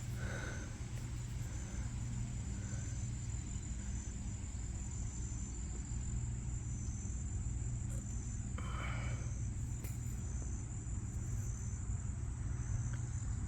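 Insects, crickets or katydids, chirping: a steady high trill with a second, pulsing chirp repeating about one and a half times a second. A brief rustle about nine seconds in, over a low steady rumble.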